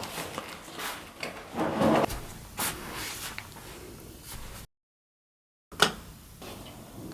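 Irregular handling noises: knocks, scrapes and rustling. About four and a half seconds in, the sound cuts out completely for about a second, then comes back with one sharp click and quieter rustling.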